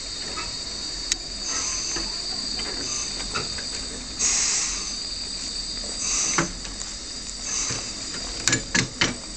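Narrow-gauge steam locomotive standing at the station, hissing steadily, with short puffs and a louder blow of steam about four seconds in. A few sharp knocks near the end.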